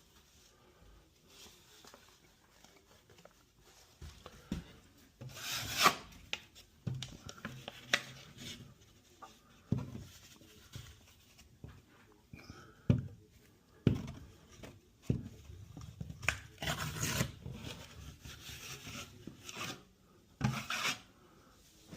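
Drywall knife spreading and scraping joint compound over drywall tape in irregular strokes, starting about four seconds in, with the loudest strokes around six and seventeen seconds in.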